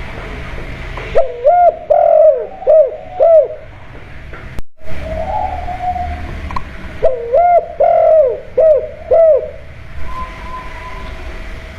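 Spotted dove (tekukur) cooing: two phrases of about five rounded coos each, some six seconds apart, over a steady background hum.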